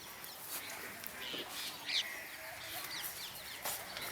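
Birds calling, several short calls with one louder call about two seconds in, over a faint steady hiss.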